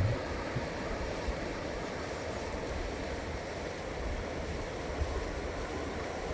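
Steady outdoor rushing noise with a faint uneven low rumble beneath it.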